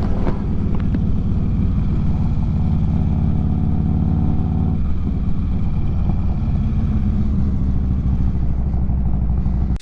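Harley-Davidson motorcycle engine running steadily, its note shifting slightly about five seconds in.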